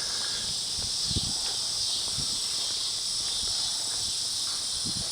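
Steady high-pitched chorus of insects, with a couple of brief low thumps, one about a second in and one near the end.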